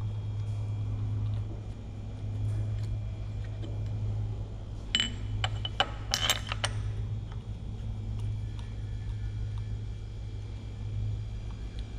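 Light metallic clinks of hand tools and bolts being handled, in a cluster of several sharp clicks about five to seven seconds in, over a steady low hum.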